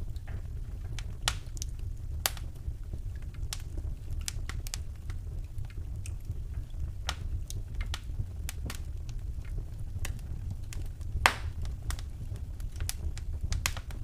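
Wood fire burning in a fireplace: a steady low rumble of flame with irregular sharp crackles and pops, the loudest pop about eleven seconds in.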